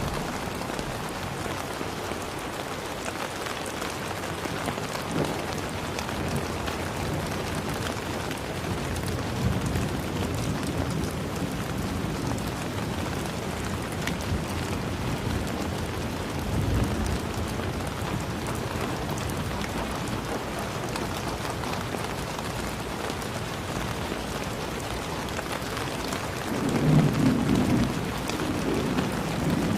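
Steady rain falling, an even hiss of drops, with a few low rumbles rising out of it; the strongest rumble comes near the end.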